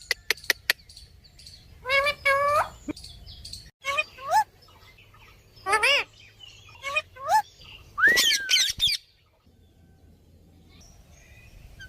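Pet parrot calling: a few quick clicks, then a run of short squawks that slide up in pitch, and a longer warbling call with a pitch glide about eight seconds in.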